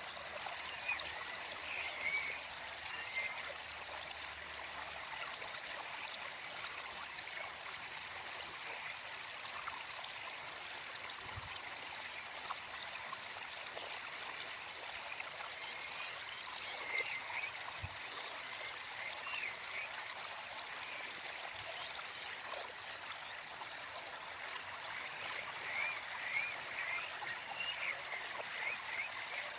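Small forest stream flowing and trickling steadily, with birds chirping in short bouts in the background, a few times over the stretch.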